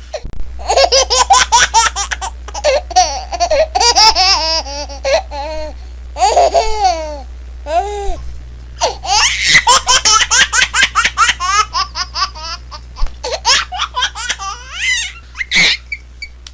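Baby laughing in long bouts of rapid, high-pitched giggles, with a short lull about halfway through.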